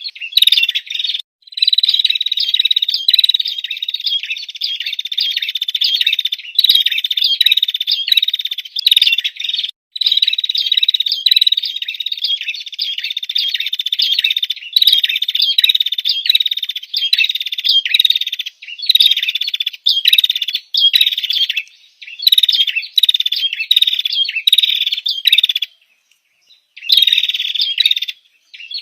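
Female prinia (prenjak) calling: long runs of rapid, high chirps that break off briefly a few times before starting again. It is the female's call to a male, used as a lure.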